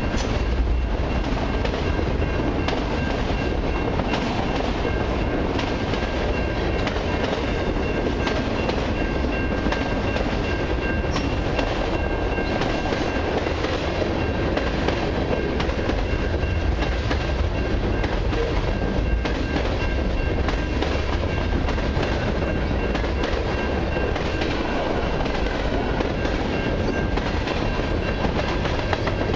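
Freight cars of a long train rolling steadily past close by: a continuous low rumble of steel wheels on rail, with a quick irregular clatter of clicks as the wheels cross rail joints. A faint steady high-pitched tone rings through it.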